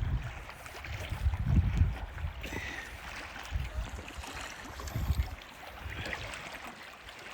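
Wind buffeting the microphone in irregular low gusts, with water sloshing against the hull of a moored boat that is rocking in the wind.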